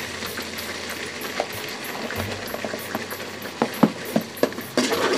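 Onion-tomato masala paste cooking in oil in a metal kadai, a steady sizzle and bubbling. In the last second or two a steel ladle clinks against the pan several times as the added spices are stirred in.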